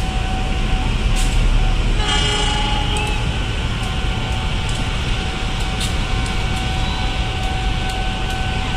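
Diesel locomotive hauling a train toward a level crossing: a steady low rumble with a steady tone over it, and a short horn toot about two seconds in.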